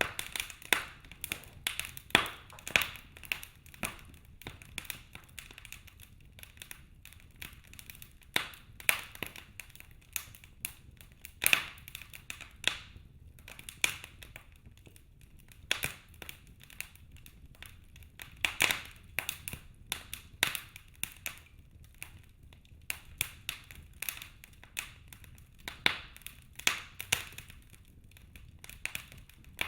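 Wood fire crackling in a fireplace: burning logs giving irregular sharp pops and snaps, a few louder cracks among many small ticks, over a faint low hiss.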